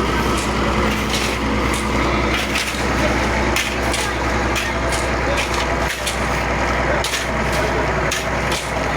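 Heavy diesel vehicle engine running steadily on a road construction site, with irregular knocks and crunching clatter over it.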